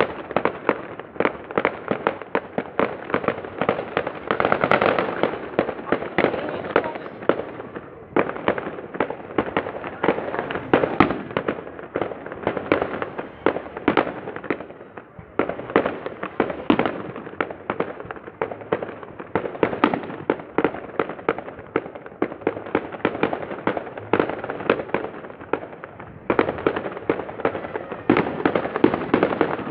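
Fireworks display: aerial shells bursting in a dense, continuous barrage of bangs and crackles, several per second, easing briefly about eight, fifteen and twenty-six seconds in.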